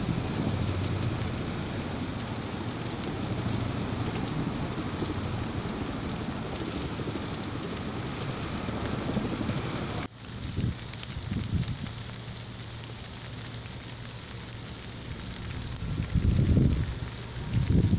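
Forest fire burning: a dense, steady hiss with fine crackling. It cuts off abruptly about ten seconds in and comes back quieter, with low rumbling gusts growing near the end.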